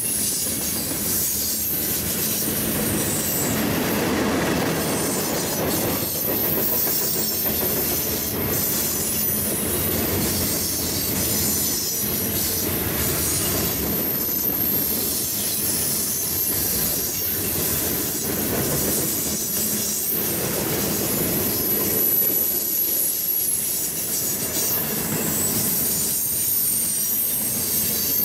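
A train's cars rolling steadily past on the track, wheels clicking over the rail with a high, wavering squeal of wheel on rail throughout.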